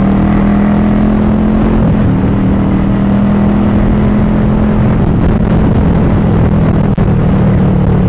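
Motorcycle engine running steadily while being ridden at an even speed, a constant drone with road noise.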